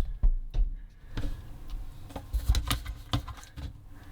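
Irregular clicks and light knocks of dishwasher parts being handled as the bottom of the dishwasher is checked.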